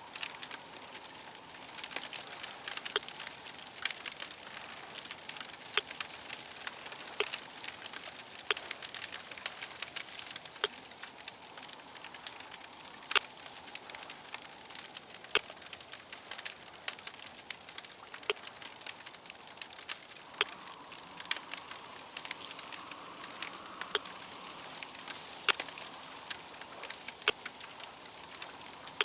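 Wood fire crackling steadily, with many irregular sharp pops and snaps over a soft hiss. A faint steady hum sits underneath, a little stronger in the second half.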